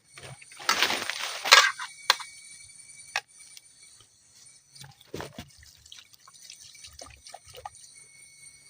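Liquid being poured in a short rush, followed by scattered drips and small knocks.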